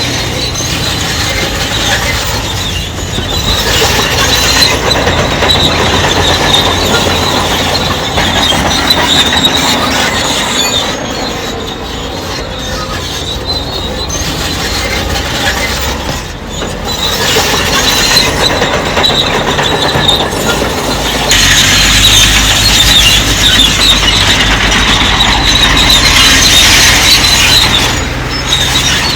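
Crawler bulldozer working: its diesel engine runs steadily under load while the steel tracks squeal, the squeal getting louder for several seconds near the end.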